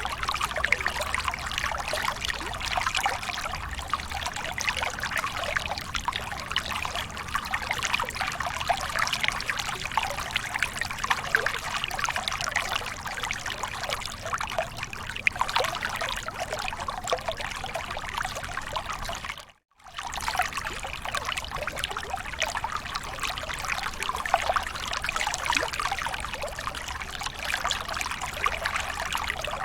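Water of a small waterfall pouring and splashing steadily. The sound drops out completely for a moment about twenty seconds in, then resumes unchanged.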